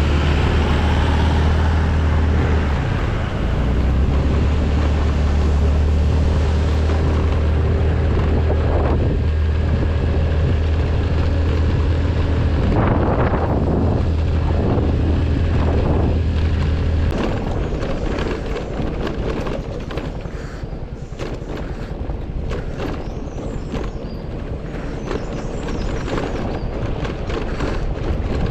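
A vehicle engine runs steadily with a deep hum. The hum stops about two-thirds of the way through, leaving a quieter bed of scattered clicks and knocks.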